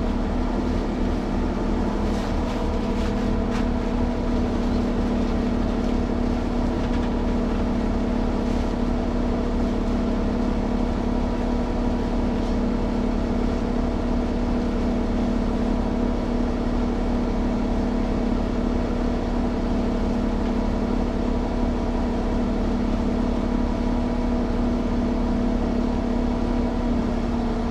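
A motor running steadily at a constant speed: an even drone with a strong, unchanging hum that cuts off abruptly near the end.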